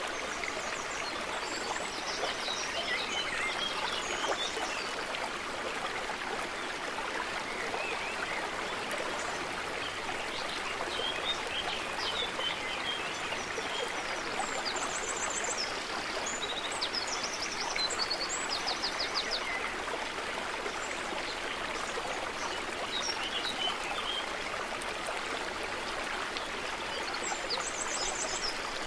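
A stream running steadily, with birds chirping over it and a few rapid trills about halfway through and again near the end.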